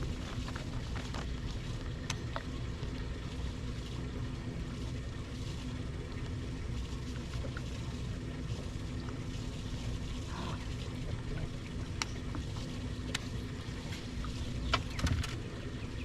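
Engine running steadily with a low hum, with a few light clicks and knocks scattered through it.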